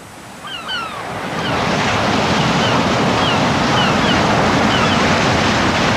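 Sea surf breaking, swelling up over the first second or so and then staying loud, with short falling bird calls heard above it.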